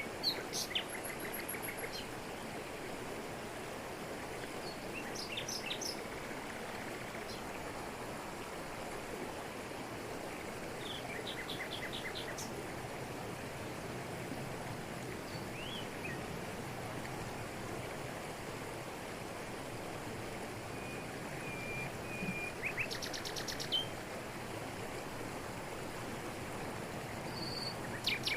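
Waterfall falling over rocks, a steady rush of water, with short bird chirps and trills above it a few times.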